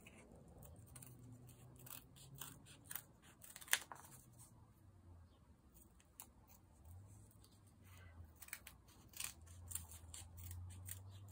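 Scissors cutting through two layers of folded glitter paper: a run of faint, irregular snips.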